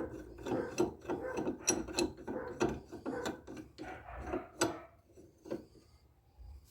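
Ratchet wrench being worked back and forth in quick strokes, clicking about three times a second, then stopping after about four and a half seconds with a few scattered clicks.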